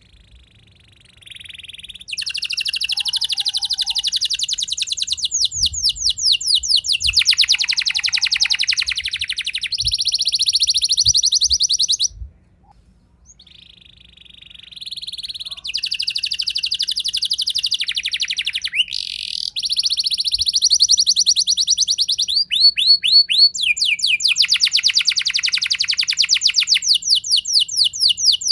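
Domestic canary singing a long rolling song of fast trills, each a run of rapidly repeated high notes. It sings in two long phrases with a pause of a few seconds near the middle.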